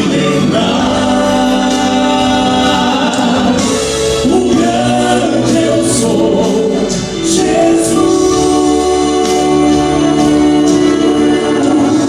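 Vocal quartet singing a gospel song in close harmony, holding long chords that change every few seconds.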